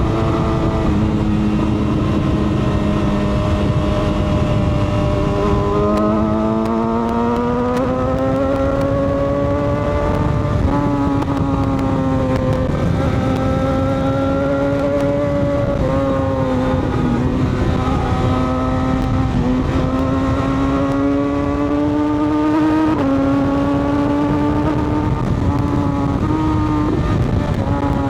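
Sport-touring motorcycle engine under way. Its note climbs with the throttle and steps in pitch at gear changes several times.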